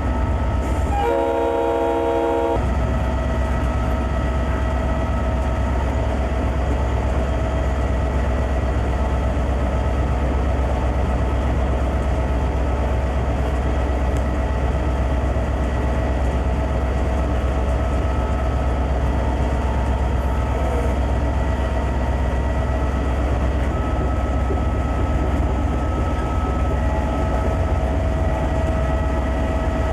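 Conrail diesel freight locomotive running steadily with a low drone, with one short blast of its air horn about a second in.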